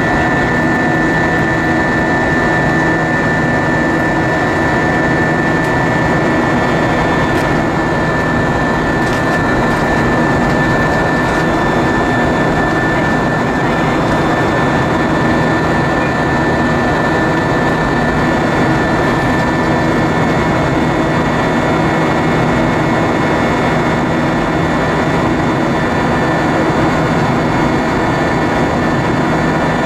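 Airbus A320-232 cabin noise in flight: its IAE V2500 turbofan engines and the airflow make a loud, steady rush with a few constant tones, unchanging throughout.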